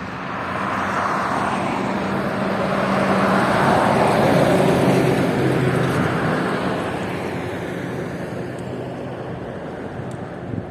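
A motor vehicle with a low engine hum and tyre noise passing by on the street: it swells to its loudest about four to five seconds in, then slowly fades.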